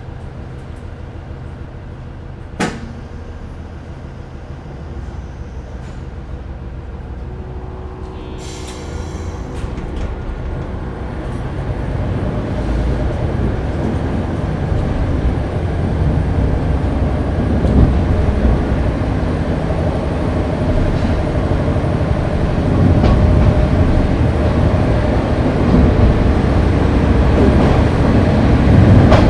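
Japanese National Railways KiHa 30 diesel railcar pulling away from a station: the diesel engines run quietly, a sharp knock sounds once about two and a half seconds in, and a brief hiss of air release comes at around eight to ten seconds. Then the engine note and the rumble of the running gear build steadily as the railcar accelerates.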